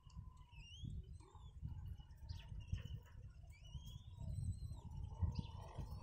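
Birds calling with short high chirps and rising whistles, scattered through, over a low, uneven rumble.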